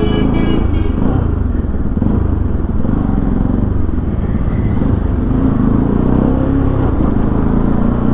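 Motorcycle engine running steadily at low road speed, heard from the rider's own bike.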